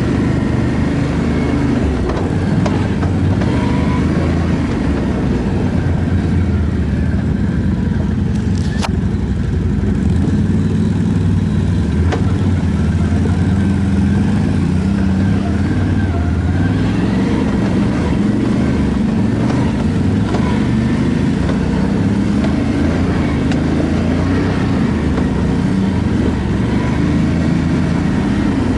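ATV engine running steadily under way, its pitch rising and falling a little with the throttle. A single sharp click about nine seconds in.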